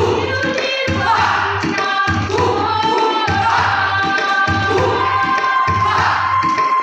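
Choir singing held, gliding notes over an instrumental accompaniment with a low beat that pulses about once a second.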